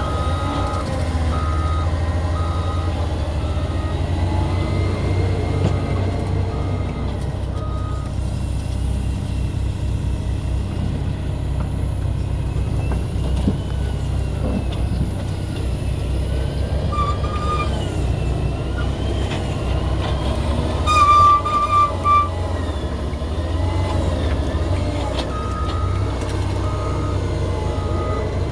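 Diesel engine of a Cat 120M2 motor grader running steadily under load while pushing dirt. A reversing alarm beeps at an even rate, about one and a half beeps a second, for the first several seconds and again near the end. About three quarters of the way through comes a short, louder burst of beeping.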